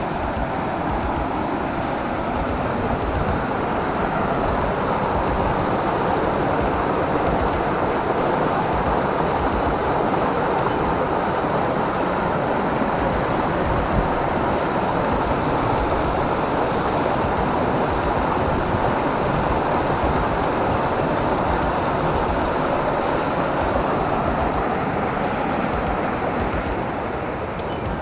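Rushing water of a mountain stream, a steady, even rush that grows a little louder a few seconds in and eases slightly near the end.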